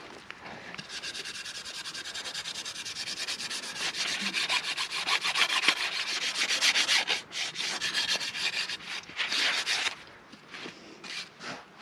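Fast, rhythmic rubbing or scraping on wood, several strokes a second, like sanding. It builds from about a second in and stops around ten seconds in, with a few more strokes near the end.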